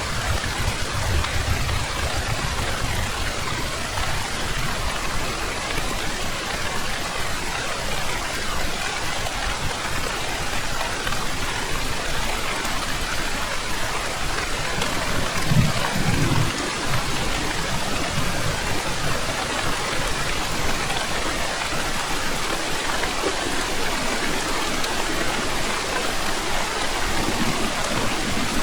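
Heavy rain falling steadily, a dense even hiss of drops, with a brief low rumble of thunder about halfway through.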